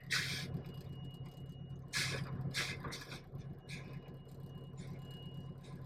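Diesel engine of a Peterbilt 359 dump truck idling as a steady low hum inside the cab, with several short faint hisses.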